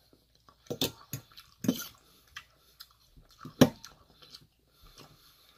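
Close-up chewing and mouth noises of someone eating, with a few clicks of a metal fork against a stainless steel bowl. The sharpest click comes a little over three and a half seconds in.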